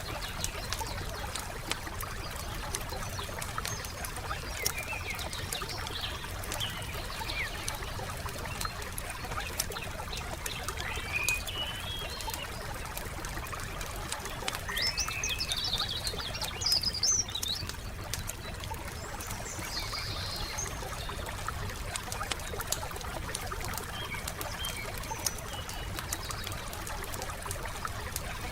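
Wood campfire crackling with many small pops over a low steady rumble, while songbirds chirp on and off, the busiest burst of birdsong about halfway through.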